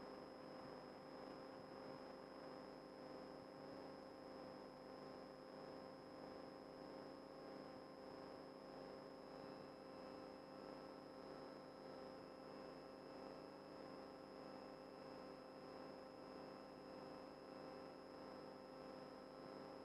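Near silence: a faint steady hum and hiss with no events.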